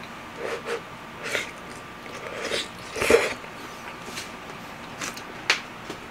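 Someone eating: short, irregular chewing and mouth sounds, loudest about three seconds in and once more near the end.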